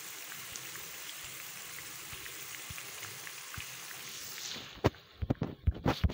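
Oil sizzling under tomato-masala eggs in a pan: a steady hiss with small crackles. Near the end the sizzle stops and gives way to a sharp click and then a quick run of scratchy clicks from a like-and-subscribe button animation.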